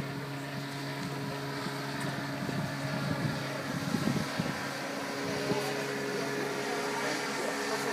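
A boat's motor running steadily, its pitch shifting to a higher note about two thirds of the way through.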